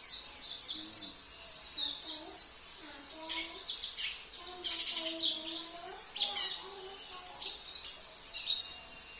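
Small songbirds singing: fast, high-pitched twittering and chirping phrases following one another without a break, with softer, lower whistled notes beneath them.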